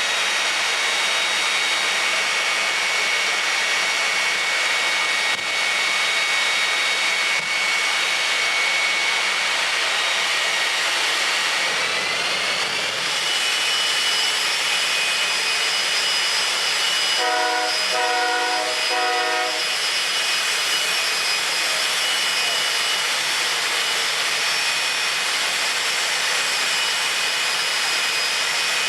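Turbine jet engine of a drag-racing jet vehicle running steadily with a loud rush and a high whine; the whine steps up in pitch about twelve seconds in. Partway through come three short horn beeps.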